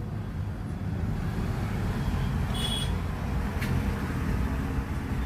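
Steady low vehicle rumble, like traffic or a running engine, with a brief high-pitched chirp a little before the middle and a faint click shortly after.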